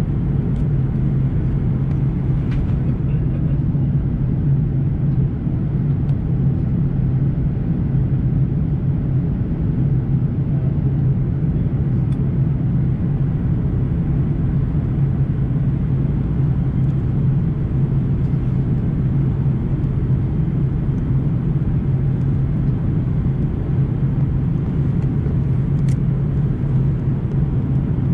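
Steady in-flight cabin drone of an Airbus A340-300 on descent: airflow and its four CFM56 engines, with a strong low hum. A few faint clicks are heard, around two seconds in, midway and near the end.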